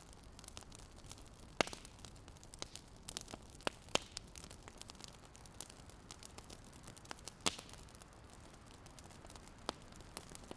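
Fire crackling: irregular sharp pops and snaps over a soft steady hiss, with a few louder pops scattered through.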